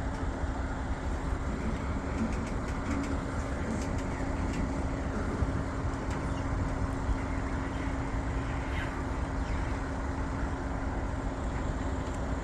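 Long freight train rolling slowly past: a steady low rumble of the cars on the rails, with a steady hum.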